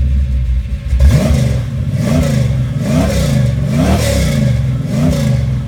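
A 440 big-block V8 with over 600 horsepower idling, then revved in about five quick blips roughly a second apart, the pitch rising and falling back each time.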